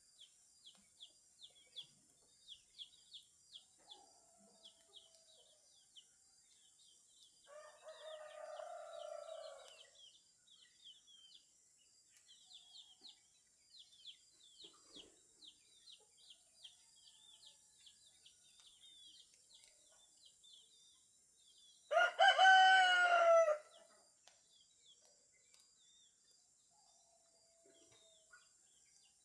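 A rooster crows once, loudly, for about a second and a half, two-thirds of the way through. A fainter, drawn-out call comes about eight seconds in. Small birds chirp rapidly and continuously throughout, over a steady high hiss.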